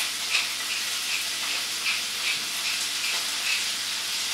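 Salmon pieces sizzling steadily in oil in a hot wok, with faint regular ticks, about two a second, of a pepper shaker being shaken over them.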